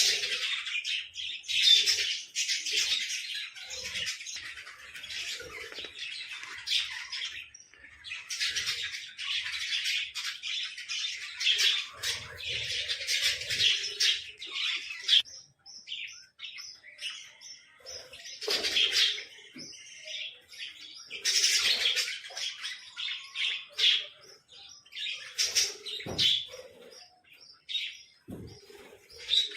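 Small pet birds chirping and chattering in rapid, high, overlapping calls, with short pauses about halfway through and again near the end.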